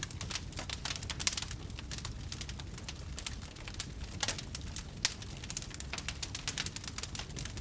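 Wood campfire crackling, with quick irregular snaps and pops over a low steady rumble, and one sharper pop about five seconds in.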